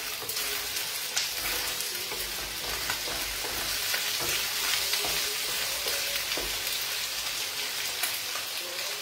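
Octopus and artichokes sizzling steadily in a wok on a gas hob, stirred with a wooden spoon that now and then scrapes and taps against the pan.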